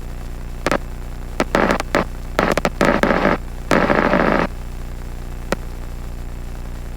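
Steady low drone of the Robinson R44 helicopter, broken by several short bursts of crackling radio static with squelch clicks between about one and four and a half seconds in, and one more click near the end.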